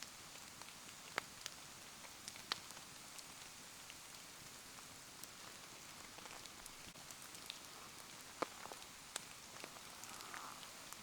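Rain falling steadily around a bonfire in a soft even hiss, with scattered sharp ticks and pops.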